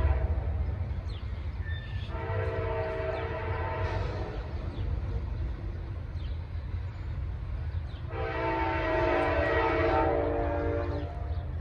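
Amtrak locomotive's air horn sounding two long blasts, each a chord of several notes, the second longer, over the train's steady low rumble. The tail of an earlier blast ends right at the start.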